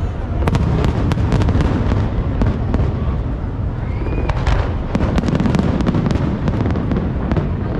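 Aerial fireworks display: a steady low rumble of bursting shells with many sharp cracks and crackles close together.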